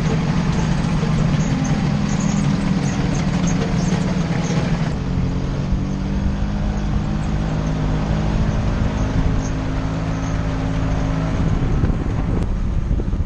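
Vespa scooter engine running steadily on the move, its note shifting slightly lower about five seconds in.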